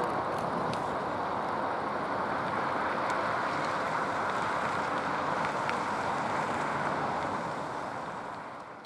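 Steady rushing noise of a train rolling past, with a few faint ticks; it fades away near the end.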